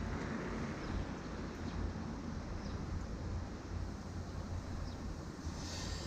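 Steady wind rumble on the microphone mixed with street traffic noise, as heard from a moving bicycle; a higher hiss builds near the end.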